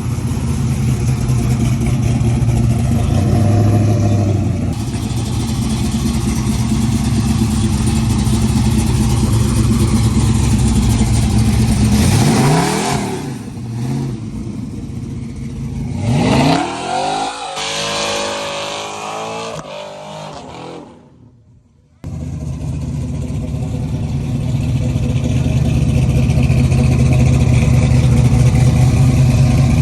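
Full-exhaust 6.2 L LS V8 street truck engine running steadily, then revving up twice, the second time climbing in stepped rises like upshifts before fading away. It then cuts suddenly back to a steady idle.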